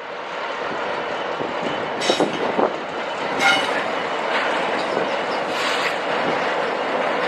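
A train running through the station: a steady rail rush, with a few short wheel squeals and clicks around the middle.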